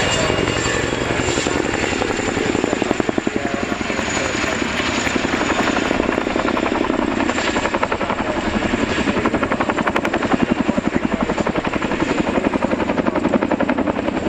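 RAF Chinook tandem-rotor helicopter hovering, its rotors beating in a fast, even pulse that grows stronger about three seconds in.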